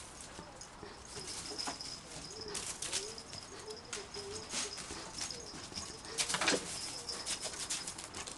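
A bird cooing in several low, wavering phrases, with short crunching steps on gravel throughout, the loudest cluster of them a little past the middle.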